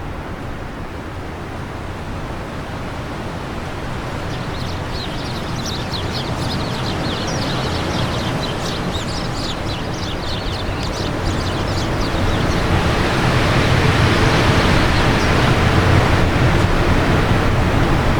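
Wind blowing steadily and building into a stronger gust in the second half. From a few seconds in until about two-thirds of the way through, a bird chirps rapidly and high over it.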